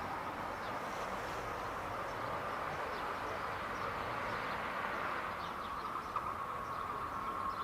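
Faint sound of an SNCF X 73900 diesel railcar approaching from far down the line: a steady hum that grows clearer near the end.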